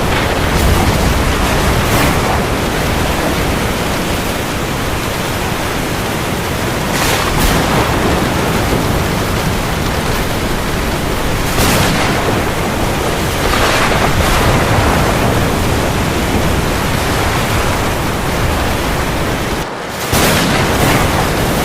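Steady heavy rain over the sea, a dense even hiss with waves surging in every few seconds. The level dips briefly near the end.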